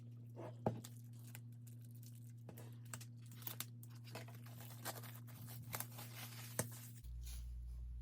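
Album packaging being torn open and crinkled by hand: scattered crackles with a few sharper clicks and snaps.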